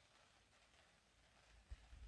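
Near silence, with a faint low rumble and a brief low thump near the end.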